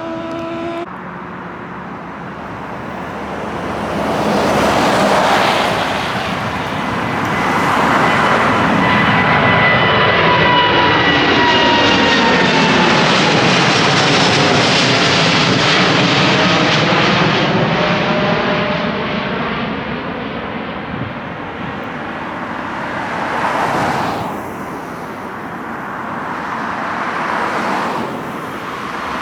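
Widebody jet airliner climbing out low after takeoff and passing overhead: the jet engine noise builds over a few seconds, stays loud for about ten seconds with a whine falling in pitch, then fades away.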